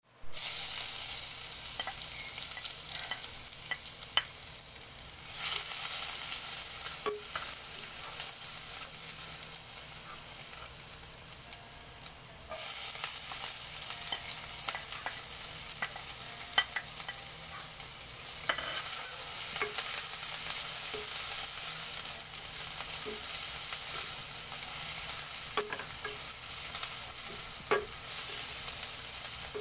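Chopped onion and garlic sizzling in hot oil in a stainless steel pan, with scattered clicks and scrapes of a spatula stirring against the metal. The sizzle gets louder about halfway through.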